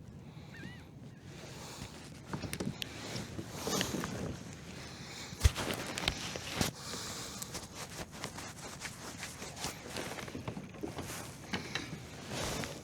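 Irregular knocks, clicks and rustling of gear being handled aboard a fishing kayak, with one sharp knock about five and a half seconds in and another a second later.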